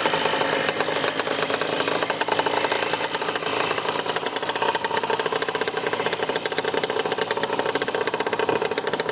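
Motorcycle engine running steadily, with a fast, even firing rhythm.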